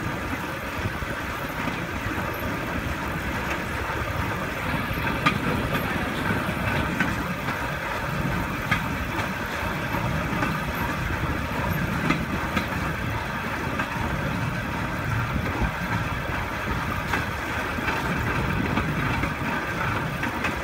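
Steel wheels of a pedal-powered rail bike rolling along railroad track: a steady rolling rumble with a sharp click every few seconds.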